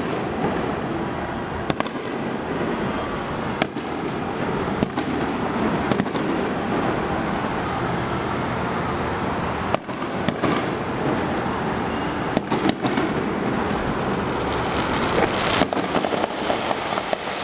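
Aerial fireworks shells bursting at a distance: about ten sharp bangs at irregular intervals of one to three seconds, over a steady background noise.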